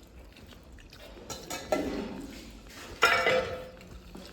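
Dishes and cutlery clinking, with two sharper knocks that ring briefly, the louder one about three seconds in.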